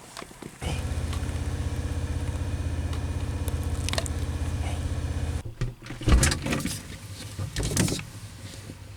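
A vehicle engine running steadily at a low, even pitch, stopping abruptly about five and a half seconds in, followed by a few scattered thumps.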